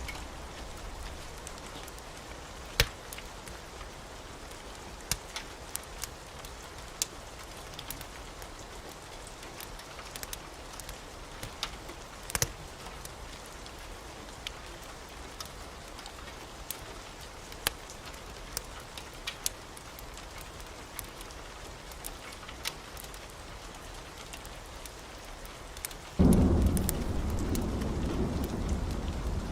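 Steady rain with scattered sharp pops and ticks. About 26 seconds in, a loud low rumble of thunder starts suddenly and keeps going.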